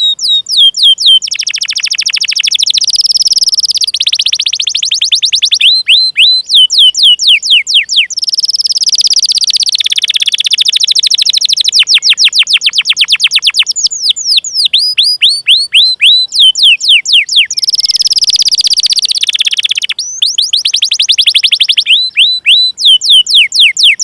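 Domestic canary singing: long runs of rapid, repeated high chirps, each sweeping downward in pitch (the 'cuit cuit' call), alternating with fast continuous rolls.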